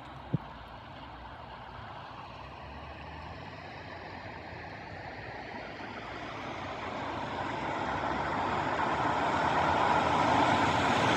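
A road vehicle approaching, its rushing tyre and engine noise growing steadily louder through the second half. There is a single short bump about half a second in.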